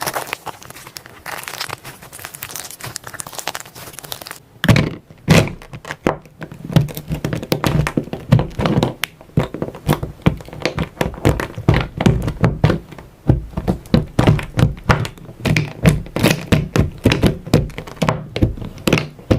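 Slime being handled: fine crackling and crinkling for the first few seconds, then a long run of soft squelching thunks, several a second, as it is pressed and folded.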